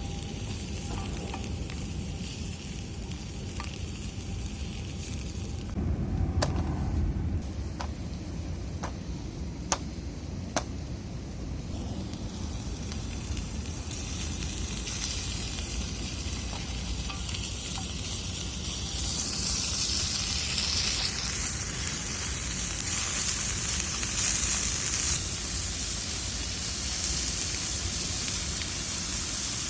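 Bacon sizzling and frying in a pan over a campfire, with a few sharp clicks between about six and eleven seconds in.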